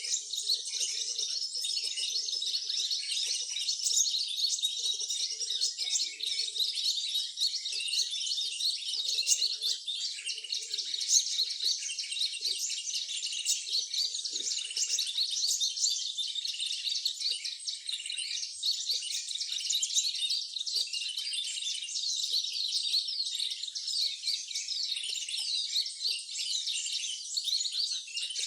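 Many small birds chirping and twittering at once in a dense, continuous high-pitched chorus, with no pause.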